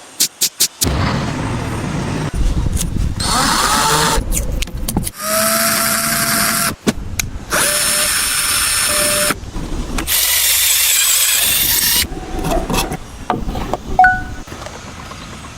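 Power tool motor running in several separate bursts that start and stop abruptly, one spinning up with a rising whine, with a few sharp clicks at the start.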